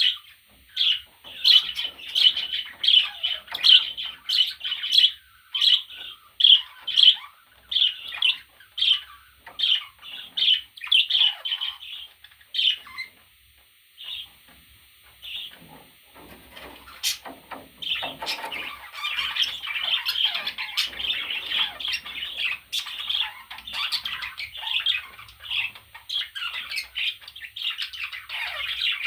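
Budgerigar chirping: short sharp calls about two a second, a few seconds' pause midway, then a denser run of continuous chattering warble.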